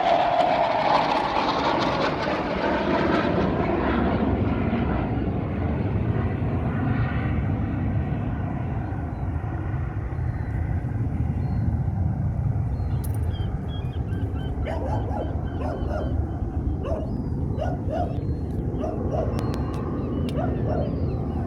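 Saab Draken jet fighter's turbojet engine, loud at first and fading over about ten seconds as the jet flies away, leaving a low rumble. From about fifteen seconds in, a dog barks repeatedly.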